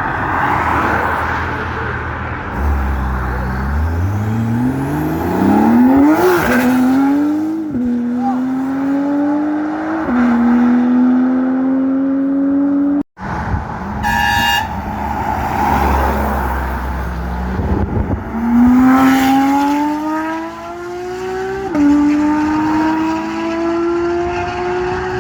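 Porsche 911 (992) flat-six engine accelerating hard through the gears. Its pitch climbs and drops back at each upshift, in two runs, and the sound breaks off briefly about halfway through.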